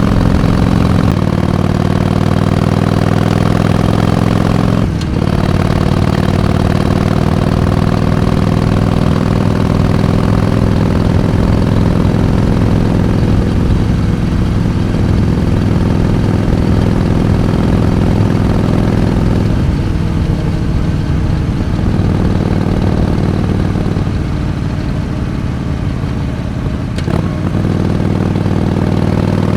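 Harley-Davidson Iron 883's air-cooled V-twin engine running under way, its pitch drifting slowly up and down with a brief break about five seconds in and a slight easing off near the end.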